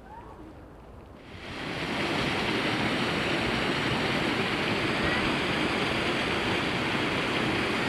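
A steady rushing noise that swells in about a second in and then holds even.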